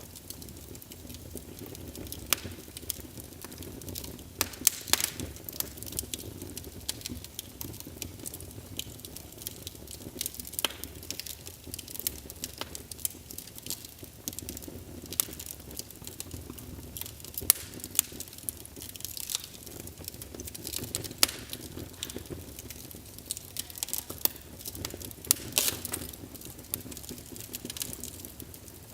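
Wood fire burning in a fireplace, with a steady low rumble of flames and irregular sharp crackles and pops throughout.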